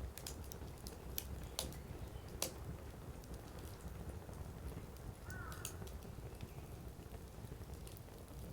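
Wood campfire burning: a low steady rumble of flames with sharp, irregular crackles and pops from the firewood, several in the first few seconds and a few more later. A brief faint whistle about five seconds in.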